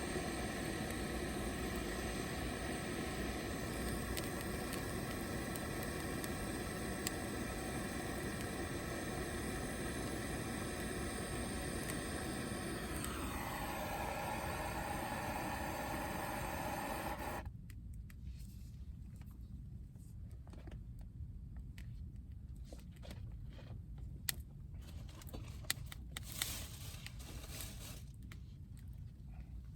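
A steady vehicle drone, like from inside a moving car, with several steady tones that drop in pitch about 13 seconds in. About 17 seconds in it cuts to a much quieter stretch of scattered small clicks and rustles.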